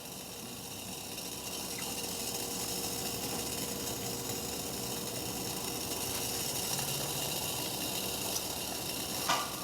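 Water at a steady rolling boil in a pot on a wood-gas pellet stove, bubbling and hissing over the burning stove.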